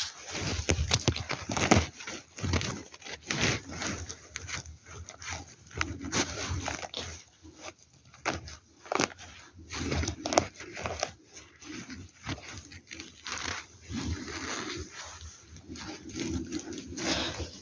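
Irregular rustling and crackling of forest-floor litter and twigs, a run of short, uneven crackles with no steady rhythm.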